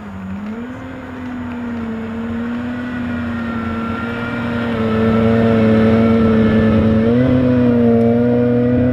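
Aston Martin Vulcan's 7.0-litre V12 running at low revs as the car rolls slowly closer: a steady engine note that grows louder, with the revs rising a little about seven seconds in.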